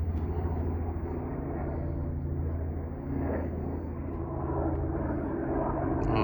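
Helicopter flying overhead, a steady low drone.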